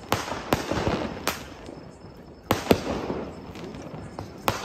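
Fireworks going off: about six sharp bangs, in clusters a second or so apart, each followed by a fading crackle.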